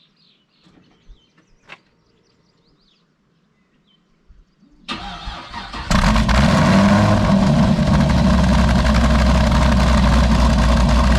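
A few faint clicks, then about five seconds in a supercharged Chevrolet Caprice's V8 cranks briefly, catches and settles into a loud, steady idle, with party whistles stuffed in its exhaust.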